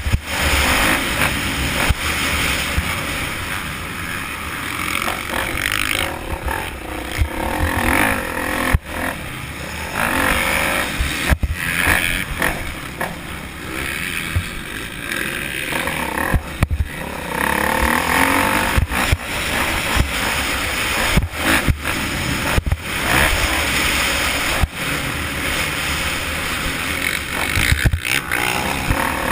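Motocross bike engine running and revving up and down, with many short knocks and rough rumble throughout.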